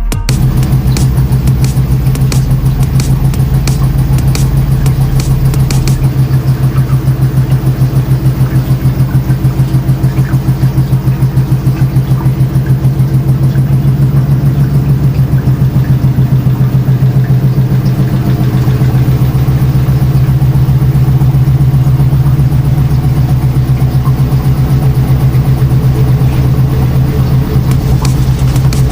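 Washing machine running with a steady low hum and a fast, even throb. Light ticking comes in over the first few seconds.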